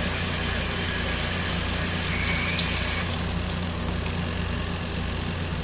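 Small portable spin dryer spinning a jacket: a steady low motor hum with a regular pulse, running quietly.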